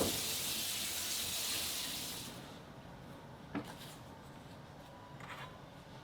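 Kitchen tap running into a sink, stopping about two seconds in; a single light knock follows a little after the halfway mark.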